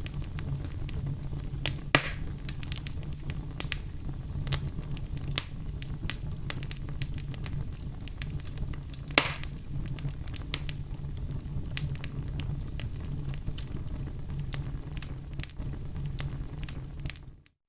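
Fire crackling in a fireplace: a steady low rumble of flames under constant small crackles, with two louder pops, about two seconds in and about nine seconds in. The sound briefly drops away just before the end.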